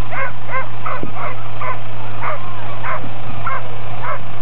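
A team of sled dogs yipping and barking in short, high calls, about two or three a second, over a steady low hum.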